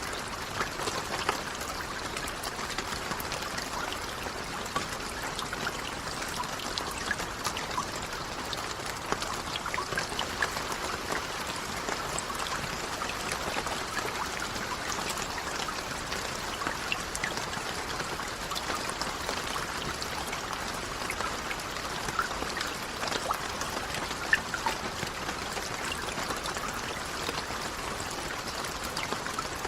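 Steady rain: an even hiss of falling water, scattered with many small, sharp drop ticks.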